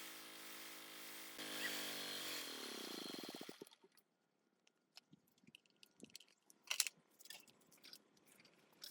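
D26 diesel generator engine running, then shut down: its pitch falls over about two seconds as it winds down and stops. Scattered light clicks and knocks follow, with one louder knock about seven seconds in.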